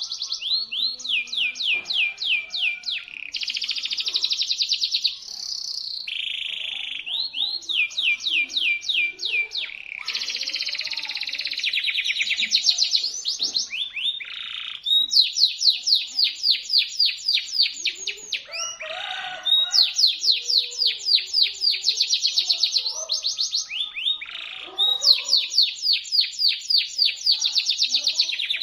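Domestic canary singing shrilly and without pause: long rolls of rapid, repeated sweeping notes, several a second, switching from one trill to the next every second or two.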